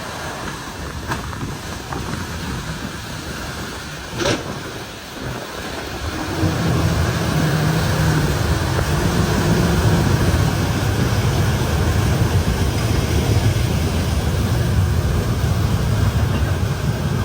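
Vehicle engine running, which gets clearly louder and steadier from about six seconds in, with a sharp click about four seconds in.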